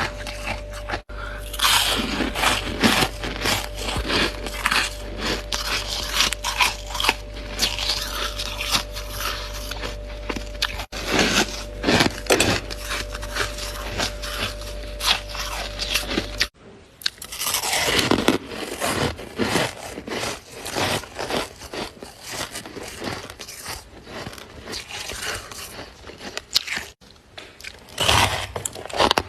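Freezer frost crunching in close-up as it is bitten and chewed, with scraping sounds mixed in. A steady low hum runs under the crunching until it cuts off abruptly about sixteen seconds in.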